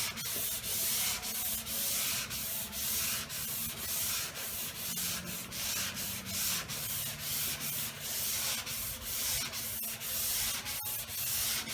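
Sandpaper on a soft sanding block rasping back and forth by hand over a car door panel, in even strokes about twice a second. Fresh paper is getting a cut on the most sharply curved part of the door.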